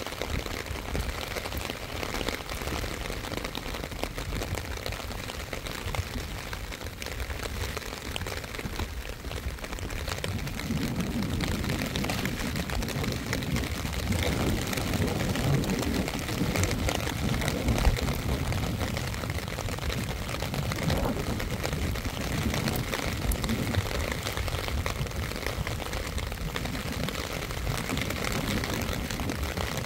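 Steady rain falling. A lower rumble grows stronger from about ten seconds in.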